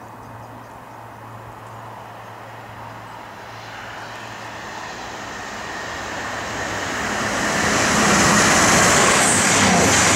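CrossCountry Voyager diesel-electric multiple unit approaching and passing at speed. Its underfloor engines and wheels on the rails grow steadily louder from about four seconds in and are loudest as it passes near the end.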